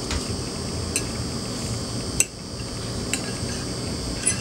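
A few light clinks of cutlery and dishes at a table, the sharpest about two seconds in, over a steady high-pitched hiss of room tone.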